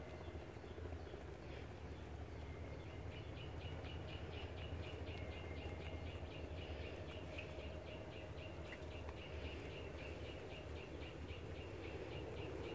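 A bird calling a long, fast run of short high notes, about four a second, starting about three seconds in, over a steady low rumble.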